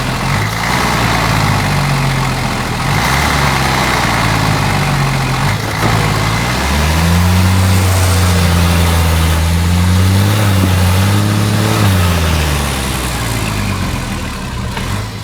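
Liaz 4x4 off-road truck's diesel engine running, working unevenly at first, then revving up about seven seconds in and holding higher revs before easing off near the end.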